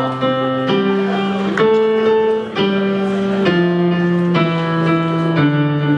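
Instrumental music: a guitar playing held chords that change about once a second.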